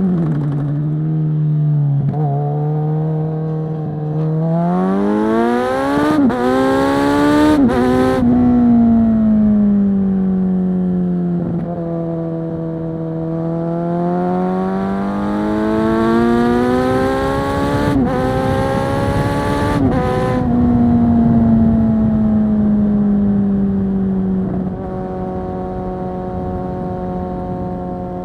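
2022 Kawasaki Z900 SE inline-four with a Zard full-system exhaust, loud and ridden hard: the revs climb and fall twice as it accelerates and rolls off, with sharp cracks at the shifts around 6–8 s and again around 18–20 s. It then settles to a steady cruising note, with wind noise underneath.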